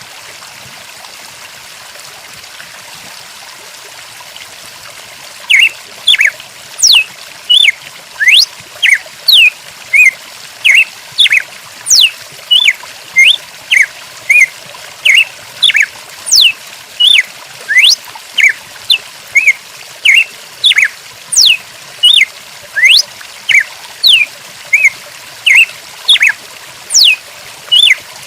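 Steady rush of trickling water, joined about five seconds in by a bird's repeated short, high chirps with quick pitch sweeps, about two a second.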